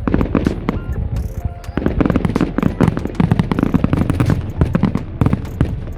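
Fireworks going off in a rapid, dense string of sharp bangs and crackles, many per second, with music underneath.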